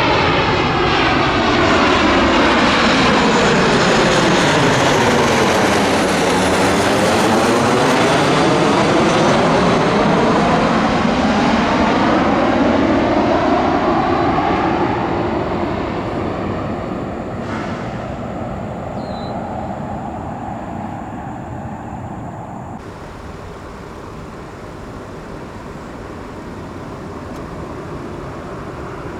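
Jet airliner on final approach for landing passing close overhead, its engine noise with a whooshing sweep that falls then rises again as it goes over. The sound stays loud for about the first half, then fades away as the plane moves off toward the runway.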